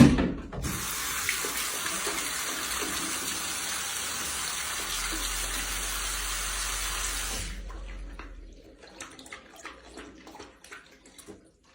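Water running steadily from a tap, stopping about seven and a half seconds in, followed by a few faint clicks.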